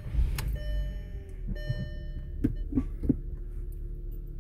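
Inside a 2003 Volkswagen Golf's cabin: the engine idling with a low steady rumble, a dashboard warning chime ringing during the first second or so, and several short clicks around the middle.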